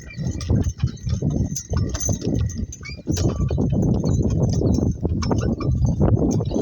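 Two donkeys walking in harness, their hooves clopping unevenly, with the work cart they pull rumbling and knocking along behind them.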